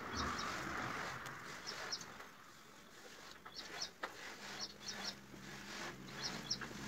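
Small birds chirping in the background, short high chirps often in quick pairs, recurring every second or so. In the first couple of seconds a pen tip scratches across notebook paper.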